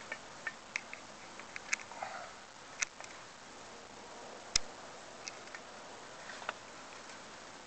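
Irregular light clicks and ticks over a steady low hiss, from a chimney inspection camera and its cable being lowered down a clay-tile flue; one sharper knock comes about halfway through.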